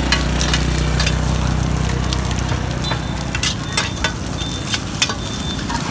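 Bột chiên frying in oil on a street-cart pan, a steady sizzle with scattered sharp clicks of utensils against the pan. A low steady hum sits under it and stops about three and a half seconds in.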